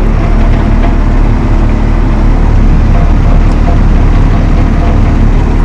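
Valtra T214 tractor's diesel engine running steadily at a constant speed, loud and unbroken.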